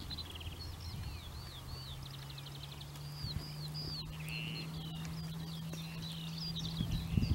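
Small songbirds singing and calling: a run of high chirps, quick sweeps and short trills, with a faint low steady hum setting in about a second in.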